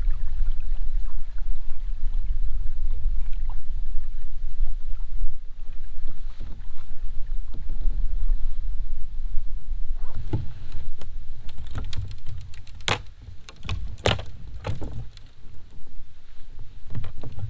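Kayak moving on the water with a steady low rumble, and a run of sharp knocks and clicks against the boat in the second half.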